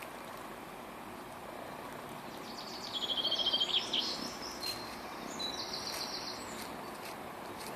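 A songbird singing two short rapid trills of repeated high notes, the first about three seconds in and the second about two seconds later, over a steady background hiss.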